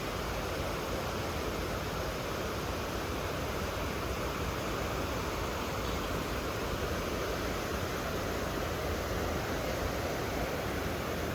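Steady, even rushing noise with a strong low rumble, unchanging throughout.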